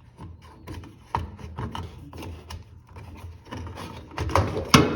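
Clicks and knocks of parts being handled while a washing machine's door lock is fitted into place, irregular at first and coming faster and louder near the end.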